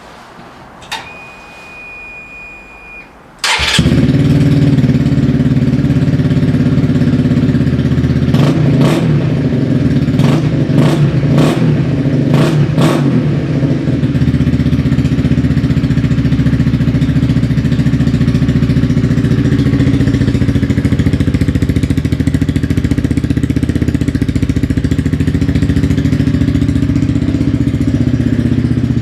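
Honda CBR 125R's single-cylinder four-stroke engine started on an Akrapovič exhaust with its baffle removed, after a click and a steady high tone of about two seconds. It catches suddenly and loud, takes five or six quick revs, then idles steadily.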